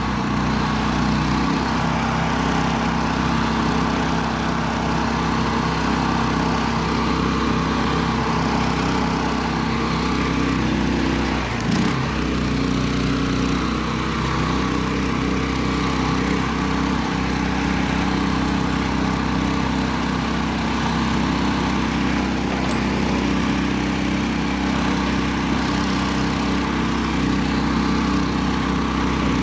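Homemade karakat's engine running steadily as the machine drives, with a brief dip in the engine note about twelve seconds in.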